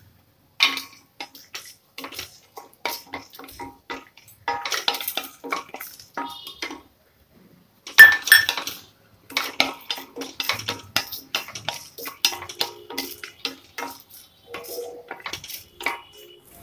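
Wooden spatula stirring cashews and whole spices in oil in a stainless steel pressure cooker: irregular scrapes and taps of wood on steel. They stop briefly, then resume with a sharper knock about halfway through.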